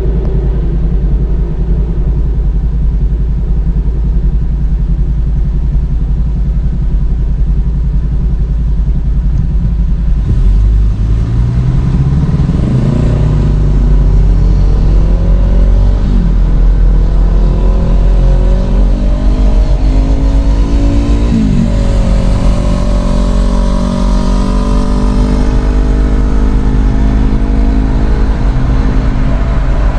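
Tour trolley bus engine heard from on board: a steady low rumble, then about a third of the way in it pulls away, its pitch rising and dropping back several times as it shifts through the gears.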